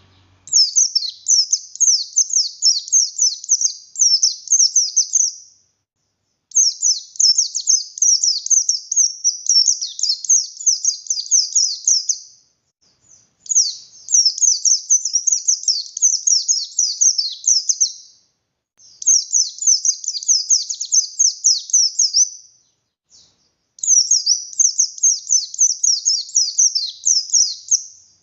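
Buxtoni white-eye (pleci) singing in long, rapid, high-pitched warbling bouts of fast notes, five bouts of about five seconds each with short pauses between.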